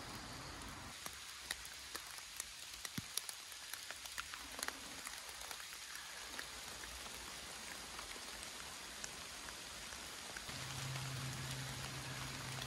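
Steady rain falling in a forest, with many sharp ticks of single drops. About ten seconds in, a low steady hum joins in.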